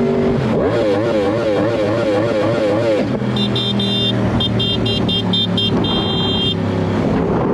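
Motorcycle engine running at road speed, with wind noise. For a few seconds near the start a warbling siren-like tone wavers up and down about three times a second, then a run of rapid short high beeps follows.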